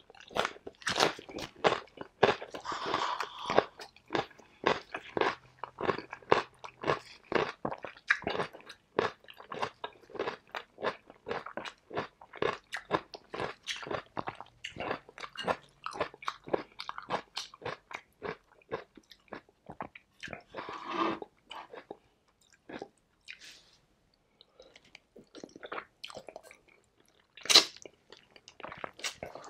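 Close-miked crunching and chewing of raw cucumber: rapid crisp crunches come thick and fast through the first half or so, then thin out. Near the end there is a single sharp click.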